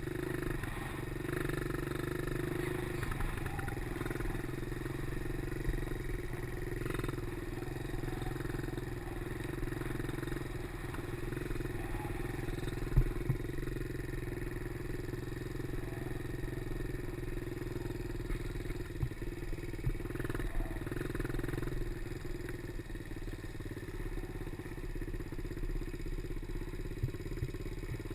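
Small 90cc motorcycle engine running at a fairly steady pitch while being ridden, with one sharp knock about halfway through.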